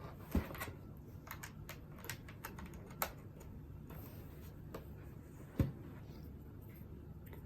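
Hands handling the earbuds and their packaging: scattered light clicks and taps, with a soft thump about half a second in and another about five and a half seconds in.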